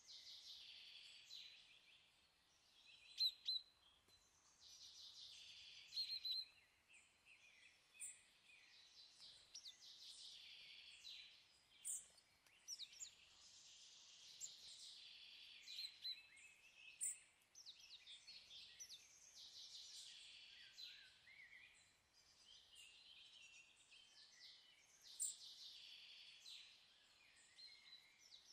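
Faint birdsong: a steady stream of short chirps and trills, with a few sharper calls standing out now and then.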